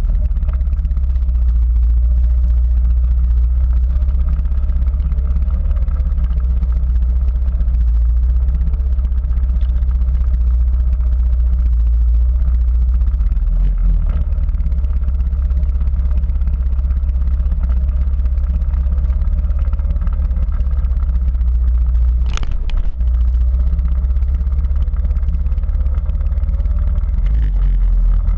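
Quad bike engine running through an off-road ride under a heavy steady low rumble, its pitch drifting up and down with the throttle. A single sharp knock comes about 22 seconds in.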